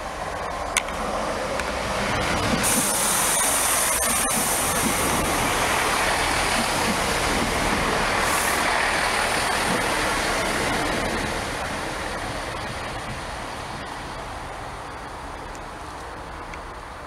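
Networker Turbo diesel multiple unit passing close by: the diesel engines and the hiss of wheels on rail build up over a couple of seconds, stay loud for about nine seconds, then fade as the train draws away.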